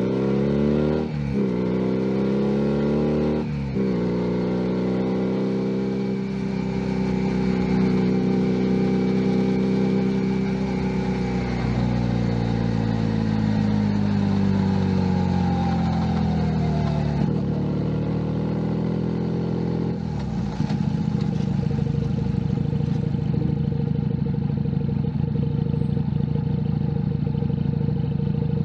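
Junak M11 Cafe 125 cc motorcycle engine pulling up through the gears, with two quick shifts in the first few seconds. It then runs steadily, drops in pitch as the bike slows, and settles into a steady lower note from about two-thirds of the way through.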